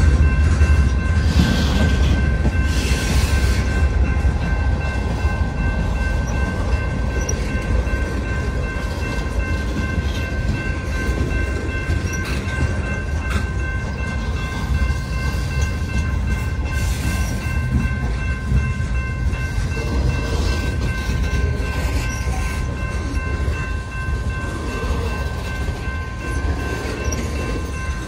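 Freight train of hopper cars, boxcars and tank cars rolling past close by: a steady low rumble of wheels on rail with occasional clanks, and several steady high tones ringing above it.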